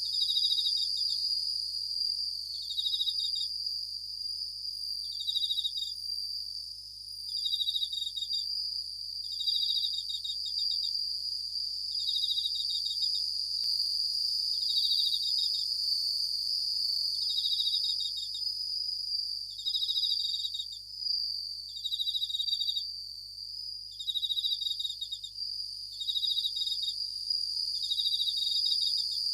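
Japanese bell crickets (suzumushi) singing. A short pulsed ringing trill repeats about every two seconds over a steady, high, continuous insect chorus.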